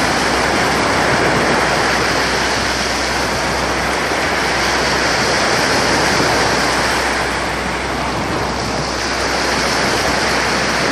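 Sea surf washing continuously onto a beach, a loud steady rush of breaking waves that eases slightly about eight seconds in.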